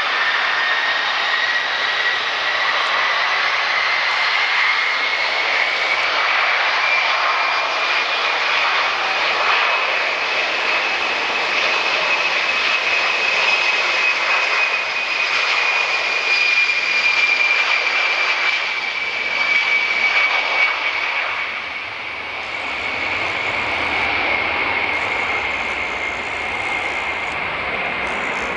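Jet airliner's turbofan engines running loud, with a whine that rises in pitch over the first ten seconds or so, holds, then eases slightly down; the sound drops in loudness a few seconds before the end.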